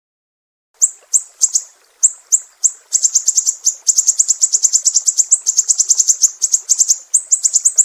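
Sumatran siri-siri songbird singing a string of high, sharp, downward-sweeping chirps. It starts about a second in with a few spaced notes, then breaks into a fast, steady run of rapid chirps.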